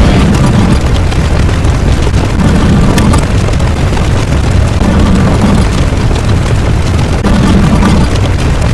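Loud, continuous low rumble with a slow swell about every second and a half.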